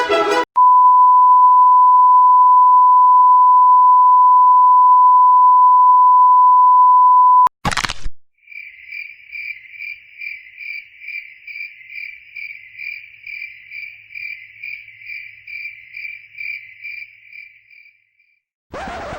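A long steady censor bleep, a single tone near 1 kHz held for about seven seconds, ends with a brief burst of noise. Then a cricket chirps evenly about twice a second for some ten seconds, the stock 'awkward silence' crickets effect.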